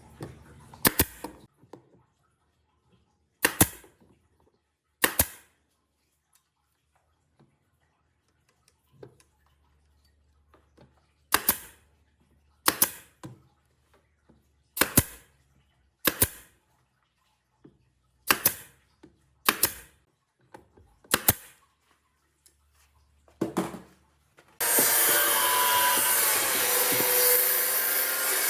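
About a dozen sharp single strikes from woodworking work, spaced one to a few seconds apart. Near the end a power tool starts and runs steadily for about four seconds.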